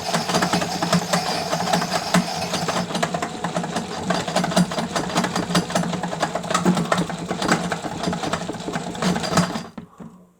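Toy Miele W1 washing machine running, its small motor humming steadily under a fast, uneven rattle of clicks from the turning drum and gears. It stops suddenly about half a second before the end, as the final rinse ends.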